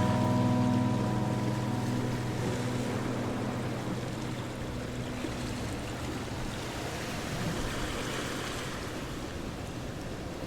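Ocean surf washing steadily in a continuous noisy rush. Over the first few seconds it is joined by the last notes of a plucked guitar chord dying away.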